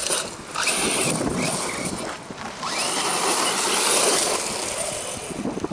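Electric RC truggy (DHK Maximus with a Leopard 4074 brushless motor) driving hard on dirt: the motor whine rises and falls with the throttle over tyre and gravel hiss. It eases off briefly about half a second in and again about two seconds in, then fades near the end.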